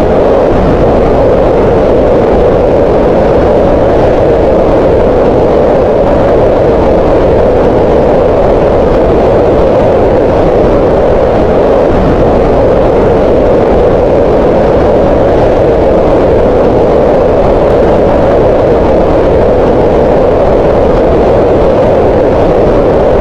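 Green noise: a steady, continuous hiss with most of its energy in a mid-range band around 500 Hz, unchanging throughout.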